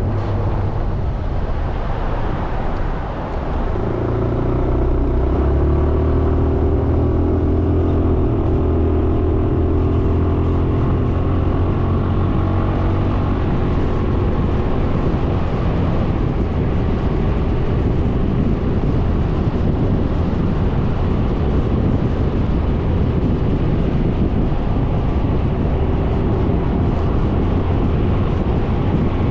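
Suzuki Burgman 400 scooter's single-cylinder engine being ridden. Its engine note comes in strongly a few seconds in and holds steady for about ten seconds, then wind and road noise take over.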